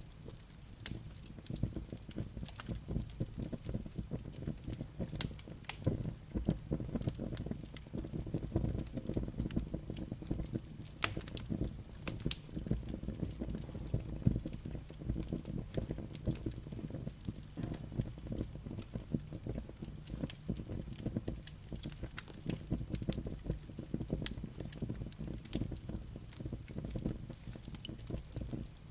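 Wood fire burning in a fireplace: a steady low rumble of flames with frequent sharp crackles and pops from the burning logs and embers.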